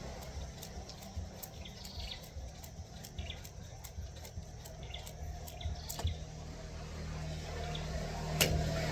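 Skipping rope ticking against the ground in a quick, even rhythm of about three to four light clicks a second, which stops about six seconds in; one sharper click comes near the end. Faint bird chirps are heard over a low steady hum.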